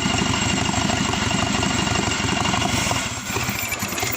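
Subaru EJ255 2.5-litre turbocharged flat-four engine running steadily, then faltering about three seconds in and dying away at the end as its fuel pump is disconnected.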